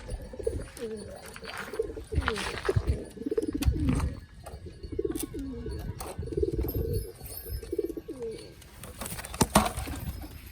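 Domestic pigeons cooing over and over, low rolling calls that rise and fall in pitch and die away a little before the end, with scattered sharp knocks and a loud knock near the end.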